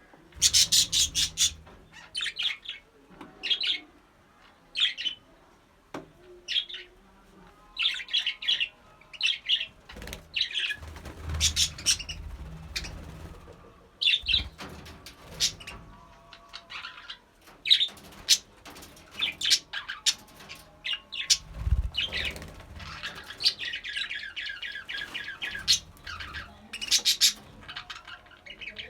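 Budgerigars chirping and squawking in many short, high calls, with a few dull low thumps in between.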